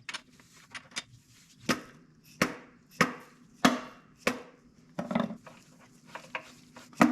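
Hammer blows on metal, a series of sharp knocks with a short ring after each, most about two-thirds of a second apart, knocking a bearing cap loose on the bottom end of a Cummins C160 diesel engine.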